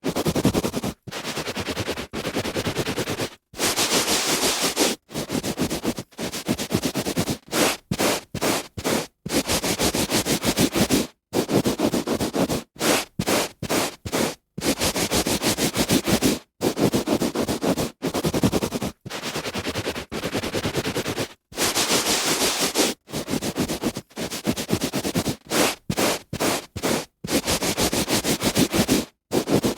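A hand rubbing back and forth on carpet: a run of rough, scratchy strokes, each a fraction of a second to over a second long, with short silent breaks between them.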